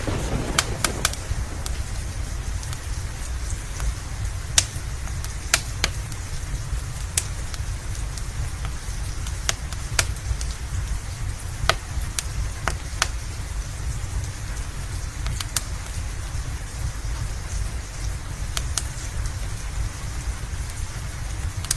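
Steady rain over a low rumble, with a wood fire crackling in sharp, irregular pops every second or two.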